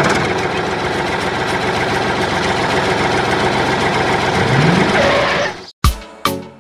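Engine running steadily, briefly rising in pitch near the end, then cut off suddenly; music with sharp beats starts right after.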